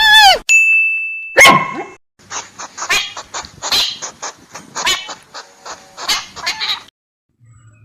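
Animal calls: a loud pitched call trails off, a short high steady tone follows, then comes a run of short, rapid, noisy calls for about five seconds before the sound stops.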